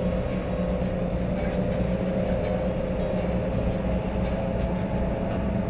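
Engines of a Skater performance powerboat running with a steady, even drone.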